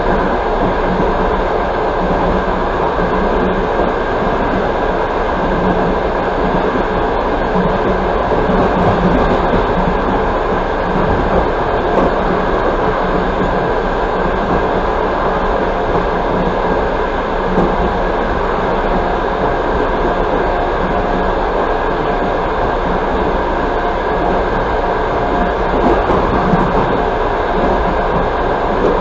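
Steady running noise of a passenger train coach at speed, heard from inside the car: wheels rolling on the rails with an even rumble and no distinct rhythm.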